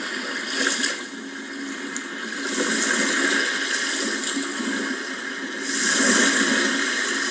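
Sea waves breaking and washing in, the surf swelling about two and a half seconds in and again near the end.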